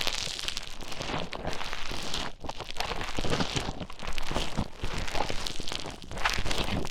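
Play Foam bead clay being stirred and squished with an ear pick close to the microphone: a dense, continuous crackling with many small clicks and crunches.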